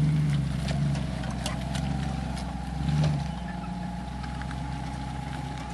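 Land Rover 90's Rover V8 engine running at low revs as the vehicle crawls through deep mud. The engine eases off right at the start, picks up in a short burst of throttle about three seconds in, then settles back to a steady low run.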